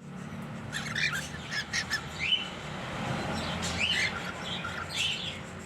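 A pair of cockatiels chirping and calling: quick short chirps, with several rising whistled calls.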